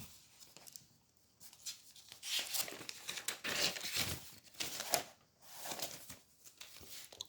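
Irregular rustling and crinkling close to the microphone, like paper or plastic being handled.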